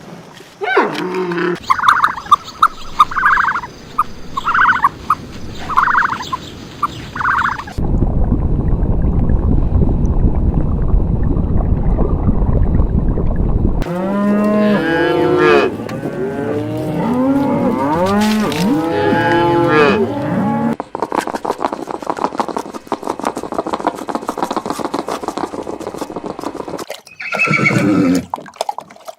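A run of different farm animal calls, one clip after another: short repeated calls at first, then a stretch of low, even noise, then many overlapping pitched calls, with cattle mooing among them.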